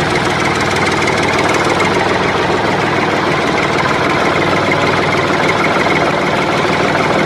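Motor of a home-made miniature tractor running steadily, a fast, even buzzing rattle.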